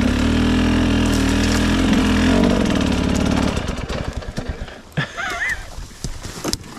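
A 300cc two-stroke dirt bike engine running steadily at low revs, then cutting out about three and a half seconds in. Small knocks and clicks follow.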